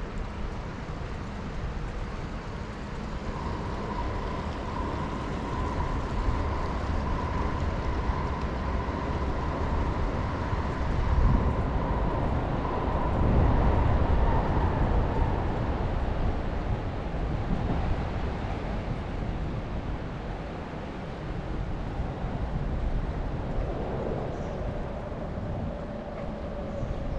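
City traffic noise heard from a moving bicycle: a steady rumble with a thin whine over it, and something passing close and loudest about halfway through. Near the end a second, lower whine sets in.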